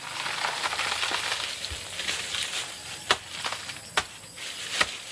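Rustling and crackling of dry leaves and plant matter being handled, with three sharp knocks at about three, four and five seconds in.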